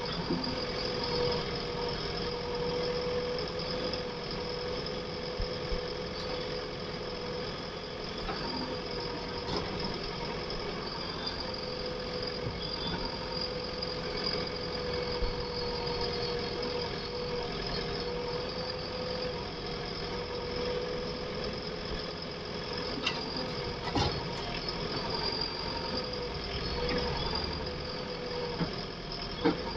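Heavy diesel engine running steadily with a constant whine. A few short, sharp knocks come about three quarters of the way through and again near the end.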